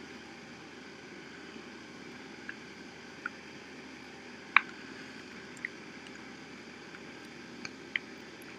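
A few short, sharp metallic clicks and knocks, the loudest about halfway, from pins and couplings being handled on a tractor attachment during a tool change. They sit over a steady background rumble.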